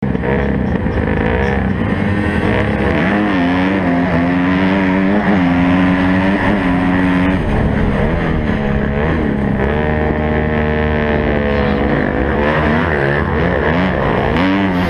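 Motocross bike engines revving, their pitch rising and falling over and over, with more than one engine heard at once; the sound starts abruptly.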